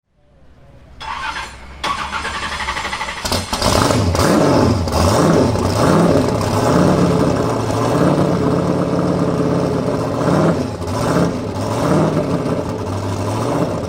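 Drift car engine revving hard, the pitch climbing and falling about once a second. It swells up from faint over the first couple of seconds.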